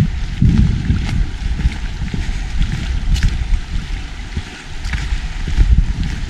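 Wind buffeting the microphone in gusts, a loud low rumble, with light steps and crunches from walking on a woodland path.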